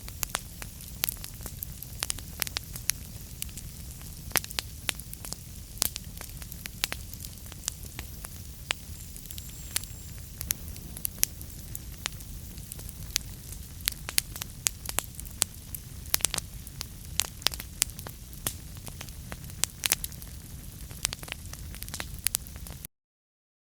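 Fire in a fireplace crackling: frequent irregular sharp pops and snaps over a steady low rumble. It cuts off suddenly near the end.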